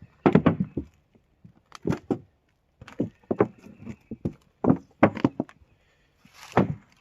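Irregular footsteps on the forest floor, about a dozen separate steps with short pauses between them.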